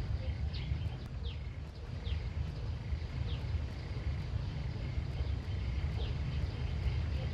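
Outdoor rural ambience: a steady low rumble with short, high, downward-sliding chirps repeating about once a second over a faint high hum.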